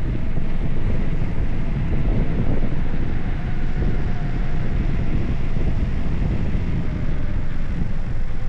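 Wind buffeting the microphone of a camera on a moving bicycle: a loud, steady low rumble, with a faint thin whine that slowly falls in pitch.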